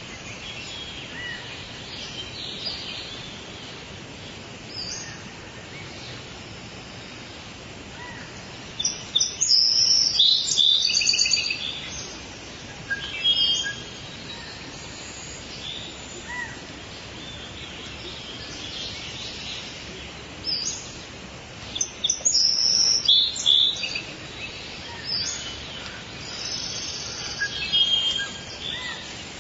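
Several birds calling and singing over a steady background hiss: short high chirps and trills, with two busier, louder bouts of song about a third of the way in and again past the middle.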